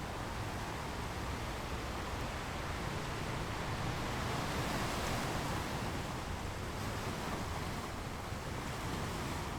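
Sea waves washing onto the shore, a steady rushing surf that swells to a peak midway and eases off again.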